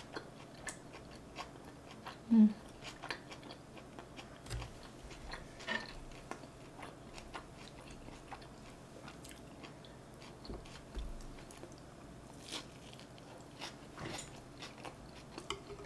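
Close-miked chewing and mouth sounds of someone eating North Korean tofu rice (fried tofu pouches stuffed with rice): many small moist clicks and smacks, with one short hum about two seconds in.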